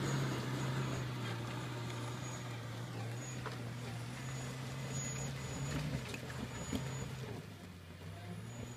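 Suzuki Jimny engine pulling steadily in a low gear as it climbs a steep dirt slope, fading as the vehicle moves off up the hill, with faint ticks of stones under the tyres.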